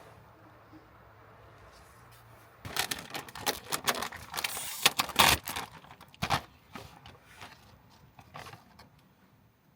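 Close rustling and tearing of packaging: a burst of crinkles and sharp clicks lasting about four seconds, then a few scattered ticks.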